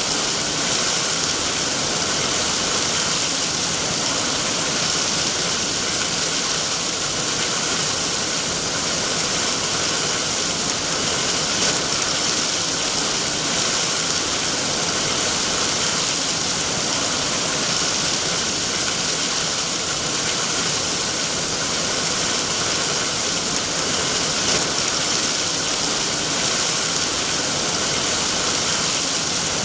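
Steady heavy rain, a constant even hiss with no separate drops or thunder standing out.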